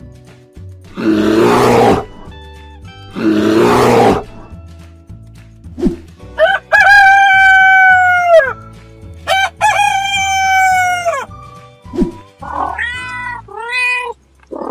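A rooster crowing twice, each crow a long held note that drops at the end, over light background music with a steady beat. It comes after two loud rasping bursts, and is followed near the end by short cat meows.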